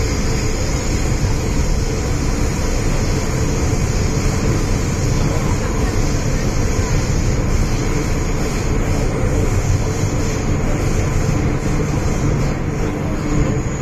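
Running noise of an MTR M-Train electric multiple unit on the move: a steady rumble of wheels on rails and the train's running gear.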